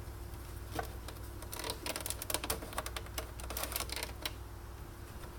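Irregular light clicks and taps of hands and tools working on the internal parts of a Sunbeam Cafe Ristretto EM2300 espresso machine during a teardown. A faint steady hum runs underneath.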